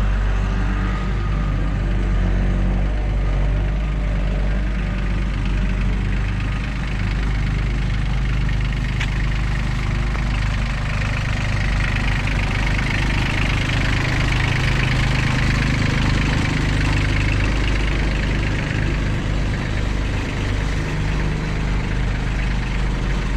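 Tractor engine idling steadily, with a single sharp click about nine seconds in.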